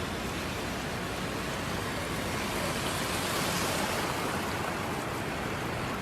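Steady rushing of water, an even noise with no break or rhythm.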